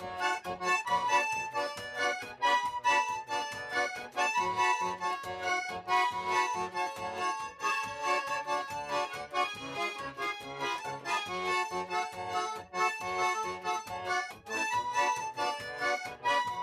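Accordion music with a steady, bouncy rhythm.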